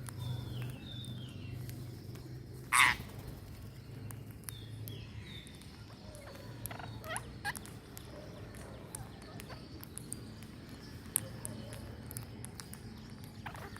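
Birds calling: a few short chirps, and one loud, short harsh call about three seconds in, over a steady low hum.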